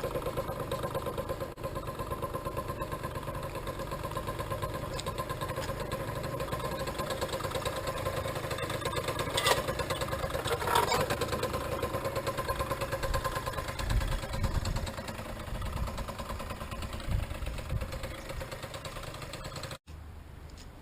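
Small vehicle engine idling steadily with an even pulsing beat, with a few louder knocks partway through. It cuts off abruptly near the end.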